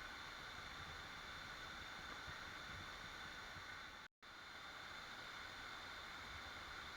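Waterfall, a steady rushing of falling water. It drops out completely for a split second about four seconds in.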